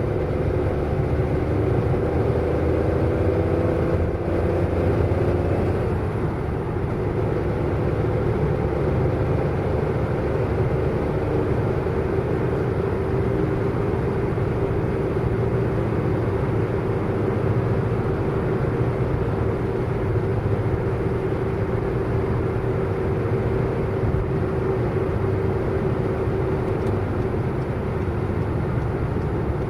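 Car driving at speed: a steady engine drone over low road rumble, its note easing slightly lower in the first six seconds, then holding steady.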